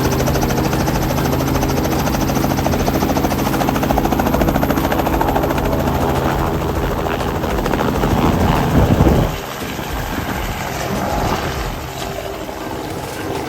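Helicopter running steadily, its rotor beating rapidly over the engine. The sound drops suddenly about nine seconds in and turns quieter and rougher.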